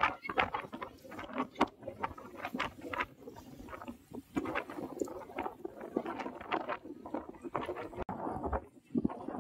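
Strong wind buffeting a phone microphone, giving an irregular rumble and crackle.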